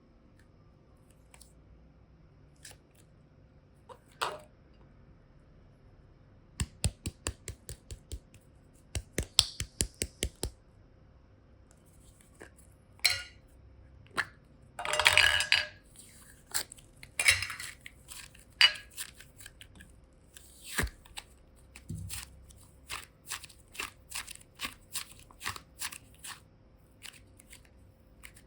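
Hands handling plastic containers and craft tools for slime: runs of sharp clicks and taps, a few quick ones in a row, with a crinkly scraping burst of about a second midway.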